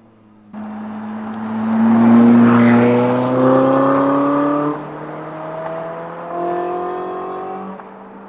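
Ferrari 458's naturally aspirated flat-plane V8 through a titanium valved exhaust with free-flow front bypass pipes. The throttle opens sharply about half a second in and the engine note climbs as the car accelerates. The note drops about four and a half seconds in, climbs again, then eases off near the end.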